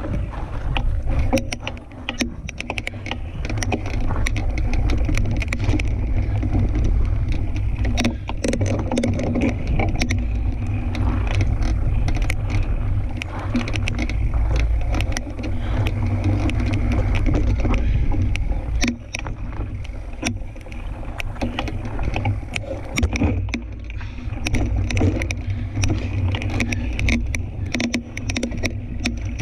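Riding noise from a fat-tyre tandem mountain bike on a dirt trail: wind buffeting the microphone, the rumble of tyres on the ground and frequent sharp clicks and rattles from the bike.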